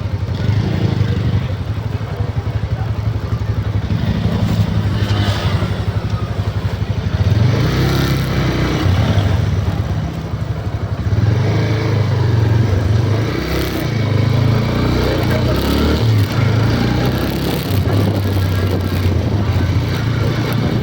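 Motor vehicle engine running with a steady low drone that swells and varies from about seven seconds in, with some clatter over it.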